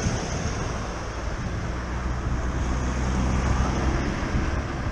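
Road traffic: a motor vehicle's engine running close by, its low hum strongest in the middle, over a steady rush of wind noise on the microphone.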